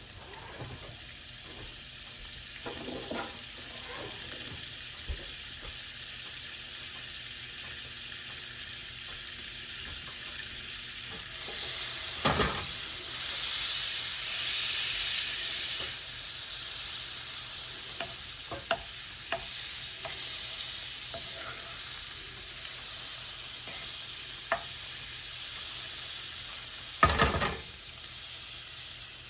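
Butter sizzling and spitting as it melts in a hot skillet over oil and browned chicken bits. The sizzle jumps louder about eleven seconds in, and a utensil knocks against the pan a few times, loudest near the end.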